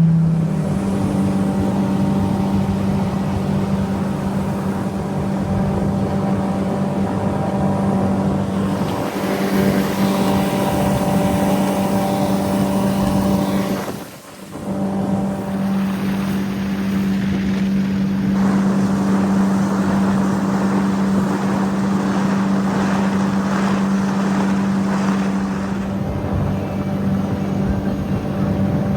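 Boat's outboard motor running steadily at speed, one even engine tone, with water and wind rushing on the microphone; the sound dips briefly about halfway through.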